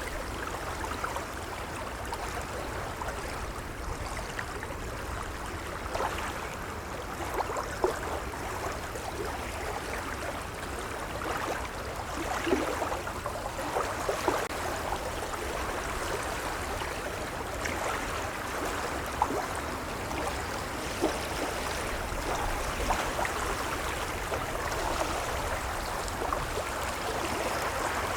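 Gentle waves lapping: a steady wash of water with many small splashes and gurgles.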